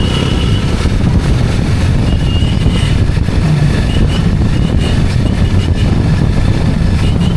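Steady loud rumble of a motorized two-wheeler being ridden: engine and road noise mixed with wind buffeting the microphone.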